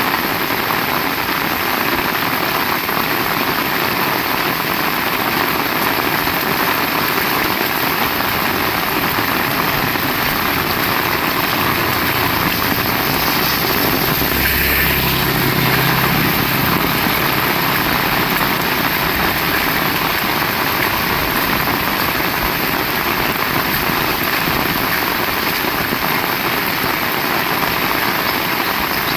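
Heavy rain falling in a dense, steady hiss. Around the middle, a low engine hum swells and fades again as a motor vehicle passes.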